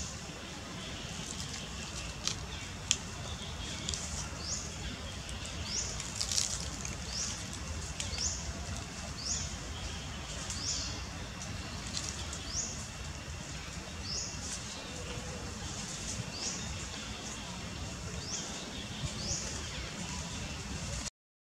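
Forest ambience: a bird repeats a short, high, hooked call every second or so over a steady low rumble. A few sharp clicks come about two to three seconds in.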